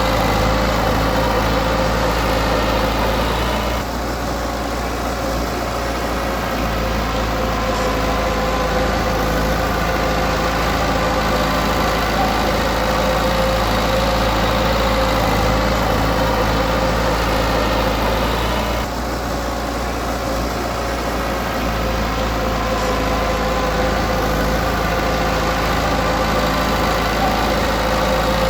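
Komatsu D20P bulldozer's diesel engine running steadily with a constant whine. It eases off briefly twice, about four seconds in and again just before twenty seconds, then picks back up.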